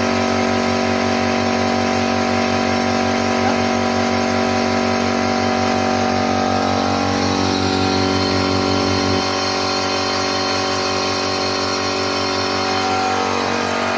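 Electric motor on an air bearing testbed running with a steady hum of several tones over a hiss. About nine seconds in, a low part of the hum drops out, and near the end the pitch slides down as the motor speed changes.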